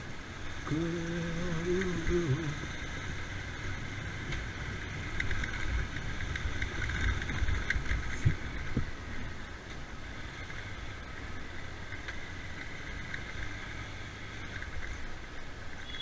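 Riding noise from a two-wheeler on the move: a steady low rumble of engine and wind. A man's held sung note lasts about two seconds near the start.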